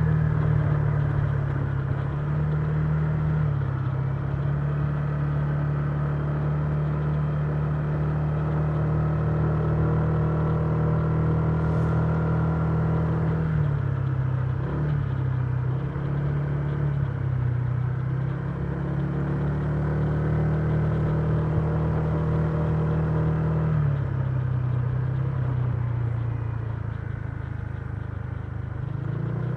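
Honda Giorno 125 scooter's single-cylinder engine running on the road. Its pitch drops as the throttle eases, about three seconds in, at fourteen seconds and at twenty-four seconds, and climbs back each time.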